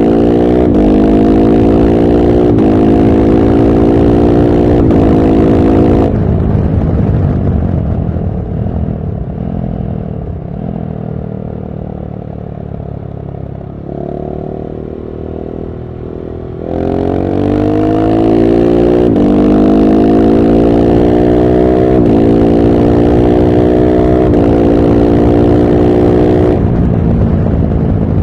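KTM SMC-R 690's single-cylinder engine through a LeoVince One Evo slip-on exhaust, accelerating hard through the gears: rising pitch cut by quick upshifts. About six seconds in it comes off the throttle and runs lower and quieter for about ten seconds, then pulls up through several gears again.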